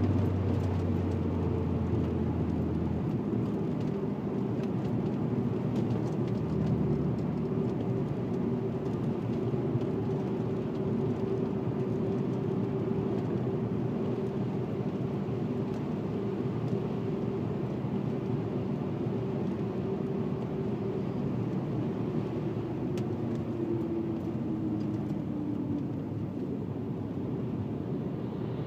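VW Passat W8's eight-cylinder engine running at a steady cruise through its custom 2¼-inch stainless exhaust with twin rear mufflers, over tyre and road noise. The engine note eases slightly lower near the end.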